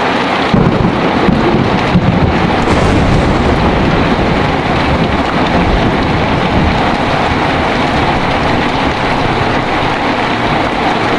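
Heavy rain falling steadily, with a low rumble of thunder that swells about half a second in and dies away over the next few seconds.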